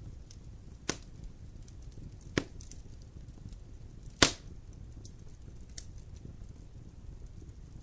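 Wood fire burning in a fireplace: a low steady rumble of flames with faint crackling throughout and three sharp pops in the first half, the third the loudest.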